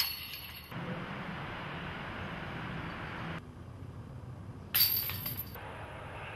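Discs striking the hanging metal chains of a disc golf basket: a sharp jingling clatter of chains at the start and a louder one about four and a half seconds in, each ringing out in under a second.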